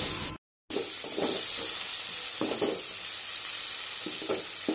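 Chopped onions and tomatoes sizzling in hot oil in a metal kadai while a perforated steel spatula stirs and scrapes them. The sound cuts out briefly about half a second in.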